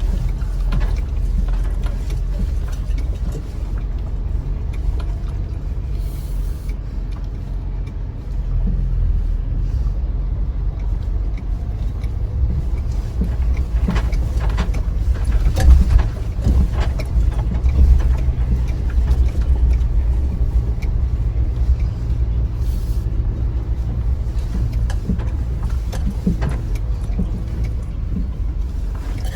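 Inside the cab of a Chevy Colorado ZR2 pickup creeping over a rough trail: a steady low rumble of engine and tyres, with scattered knocks and rattles from bumps and loose gear. The rattles are thickest and loudest about halfway through.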